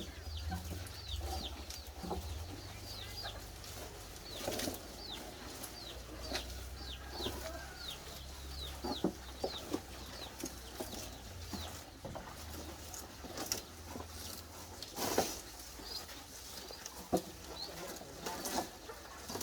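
A bird chirping over and over, short high notes that fall in pitch, roughly one or two a second, with scattered knocks and rustles.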